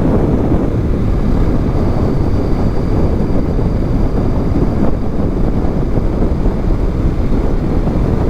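Steady wind rush on the microphone from a 2021 Honda Rebel 500 motorcycle riding at speed, with the engine and road noise running underneath.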